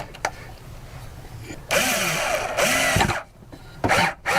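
A power drill-driver runs in two short bursts, its motor pitch rising and falling as it drives a screw into a bracket, with a few sharp knocks around it.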